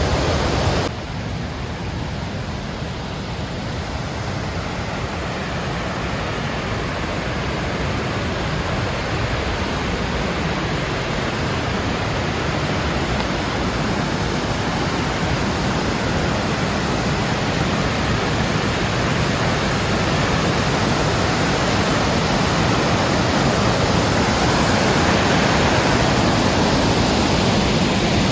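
Cascade waterfall rushing: a steady roar of falling water that dips slightly about a second in, then slowly grows louder.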